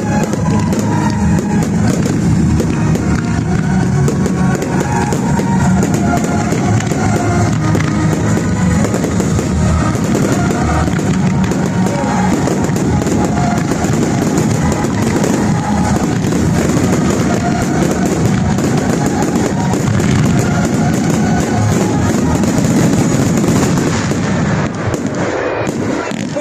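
Fireworks crackling and banging without a break, mixed with loud rock music with drums.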